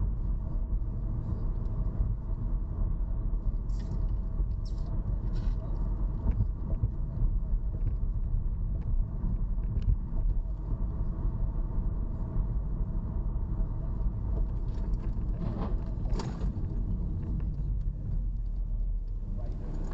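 Car on the move: a steady low road-and-engine rumble, with a few faint clicks and a short louder noise about sixteen seconds in.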